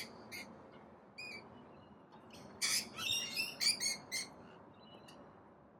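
Rainbow lorikeets calling: a short call about a second in, then a burst of shrill, high-pitched chattering calls through the middle.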